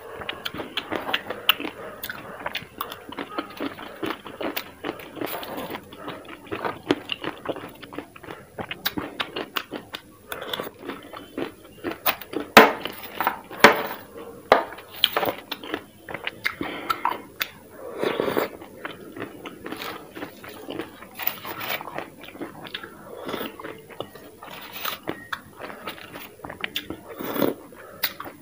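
Close-miked eating: chewing and biting spoonfuls of dahi (yogurt) topped with pomegranate seeds and green chili, a dense run of small crunches and mouth clicks. A metal spoon scrapes and clinks against a foil tray between bites.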